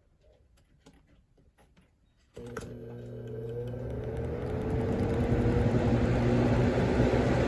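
Lasko 20-inch box fan switched on at its middle speed from a cold start. A switch click comes about two and a half seconds in. The motor hum and blade air noise then rise as the fan spins up, with a whine climbing in pitch, and settle to a steady run.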